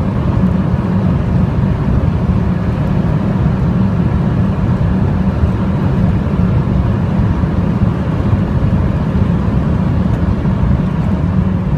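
Mercedes-Benz W210 E-Class with a swapped-in M113 5.0-litre V8 at sustained high speed: a loud, steady drone of engine, wind and tyre noise, with no gear change.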